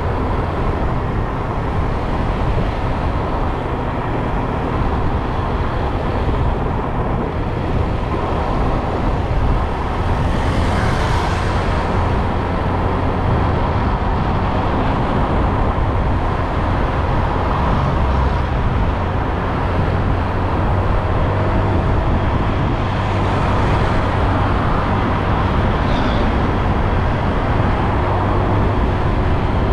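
Motorbike riding on the road: a steady rush of engine and road noise with a faint engine hum. Brief swells of hiss about a third of the way in and again later, like vehicles passing close by.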